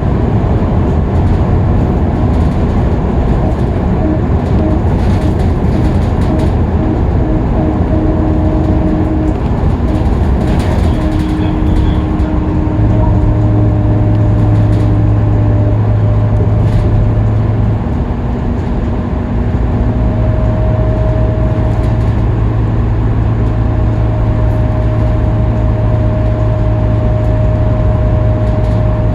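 Scania K310UB city bus running at steady freeway speed: continuous engine and drivetrain rumble with road noise and steady humming tones. A strong low hum comes in about halfway, drops out for a couple of seconds, then returns and holds.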